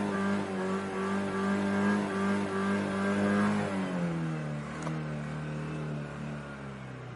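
Car engine revved and held at high rpm, then the revs drop about three and a half seconds in and settle at a lower, steady speed.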